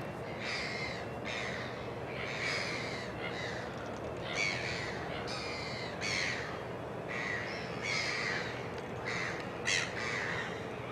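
Gulls calling over and over, a string of about a dozen harsh cries each lasting up to a second, over a steady background hum.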